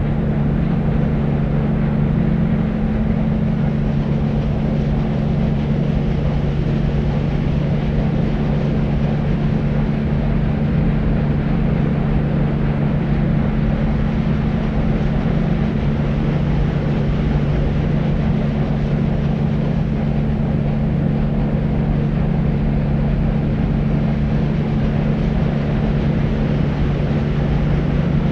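Deep white noise: a steady, even rumbling hiss weighted toward the low end, with a strong low hum and little treble, unchanging throughout.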